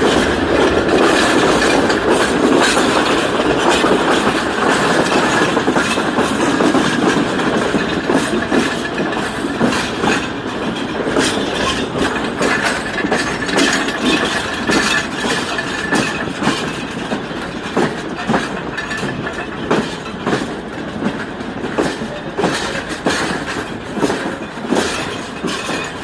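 Passenger train running along the track: a steady rumble of wheels on rails with the clickety-clack of wheels crossing rail joints. It grows somewhat quieter in the second half, where the individual clicks stand out more.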